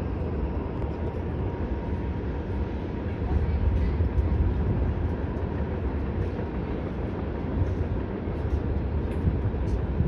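Distant freight train running along the far riverbank, a steady low rumble.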